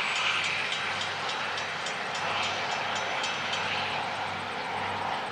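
VLocity diesel multiple unit running along the track away from the listener, a steady rumble of engines and wheels on rail that fades slightly, with light regular ticking from the wheels.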